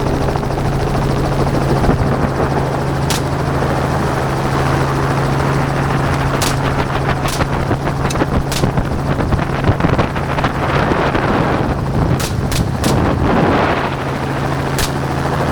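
Helicopter rotor and turbine running steadily, with rifle shots from the aerial hog hunters cracking out at irregular intervals, including three in quick succession late on.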